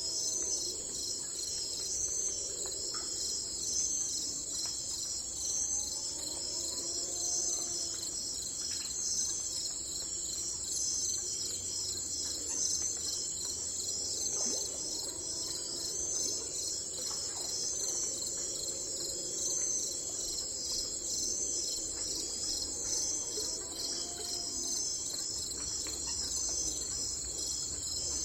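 A steady chorus of crickets, a dense high trill pulsing evenly throughout. A lower call that bends up in pitch recurs every five or six seconds beneath it.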